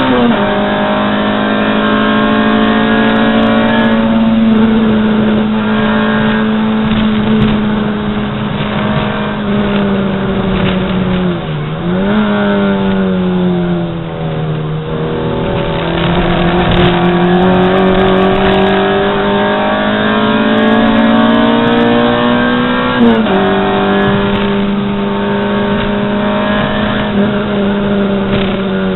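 Race car engine heard from inside the cabin, running hard at high revs. Its pitch steps down once about 23 seconds in, and dips and climbs back up around twelve seconds in, as at gear changes and lifts for corners.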